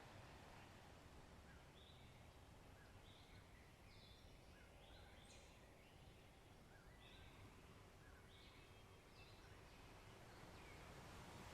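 Faint short bird chirps repeated at irregular intervals, about a dozen in all, over a faint steady low background rumble.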